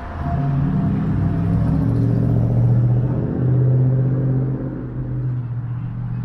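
A motor vehicle's engine running close by on a city street, a steady low hum that swells to its loudest in the middle and then eases off as it passes.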